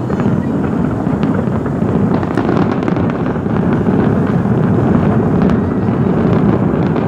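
A large fireworks barrage blending into a continuous rumble with no separate bangs, with a few faint crackles about two to three seconds in and again near the middle, mixed with wind noise on the microphone.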